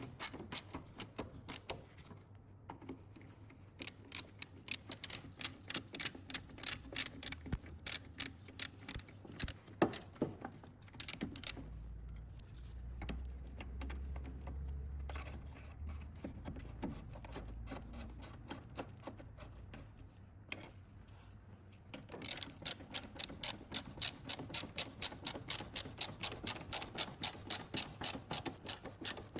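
Hand ratchet wrench clicking as it is swung back and forth on a nut or bolt, about five clicks a second, in several runs. A low rumble fills a few seconds midway.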